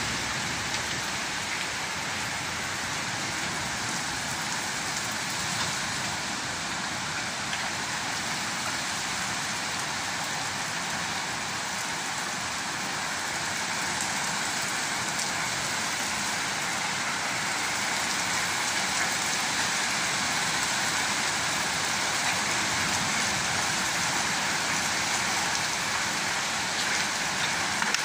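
Heavy storm rain pouring steadily onto a wet brick-paved patio and garden. It grows a little louder about halfway through.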